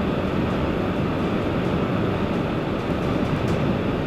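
Steady road and wind noise inside a car's cabin driving at highway speed through a snowstorm in heavy wind.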